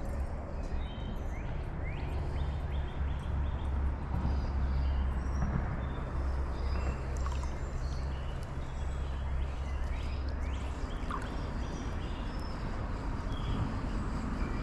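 Steady rush of fast-flowing creek water with birds chirping over it. A low rumble underneath fades out about two-thirds of the way through.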